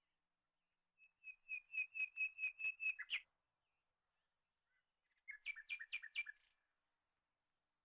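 A bird calling in two rapid series of clear, repeated notes: about ten notes at roughly four a second, the last one slurring down, then a shorter series of about five.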